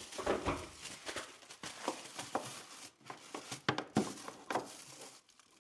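Irregular clicks, knocks and rustling from hands handling a power cord and plug while fitting it into a wall outlet, stopping shortly before the end.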